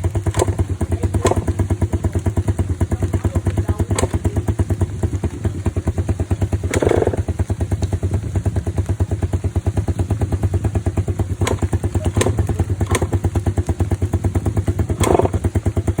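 Motorcycle engine idling steadily with an even thumping beat of about ten pulses a second. A few sharp clicks and knocks sound over it.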